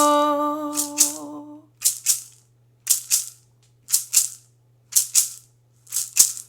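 A woman's voice holds the last note of a Yoruba praise chant to Osun and fades out about a second and a half in. Meanwhile a hand rattle is shaken in a steady beat of paired strokes, about one pair a second.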